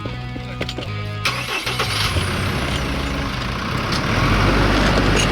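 Music for about the first second, then a steady, noisy mechanical running sound with a low rumble that gets louder near the end.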